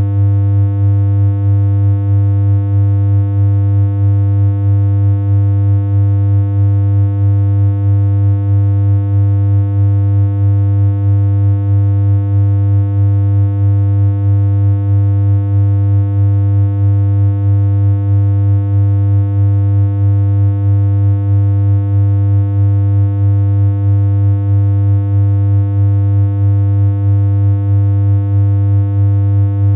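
A steady low electronic hum: one synthesized tone held at a single unchanging pitch, with a buzzy edge and a slight regular pulse in level.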